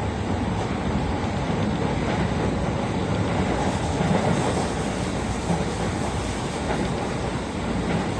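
Steady running noise of a JR Tokaido Line electric train in motion, heard from inside the passenger car: an even rumble of wheels on rail.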